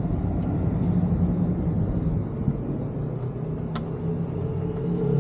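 A vehicle engine idling steadily with a low, even hum, and one sharp click about two-thirds of the way in.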